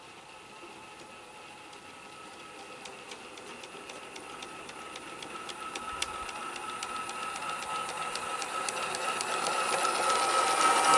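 G-scale live-steam model locomotive running on garden railway track and coming closer, growing steadily louder, with a quick run of regular clicks from the wheels over the rail joints and a steady high hiss.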